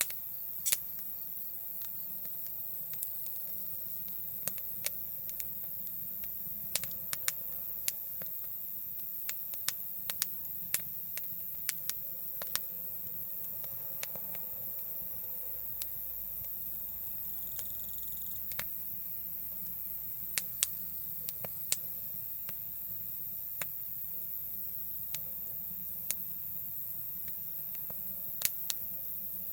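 Wood campfire crackling, with irregular sharp pops and snaps, one to three a second, over a steady high hiss of insects.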